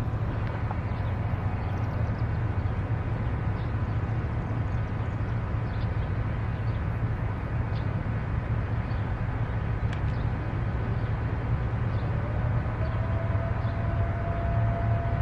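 SEPTA electric commuter train running with a steady low rumble. About eleven seconds in, a single whine rises in pitch and then holds steady.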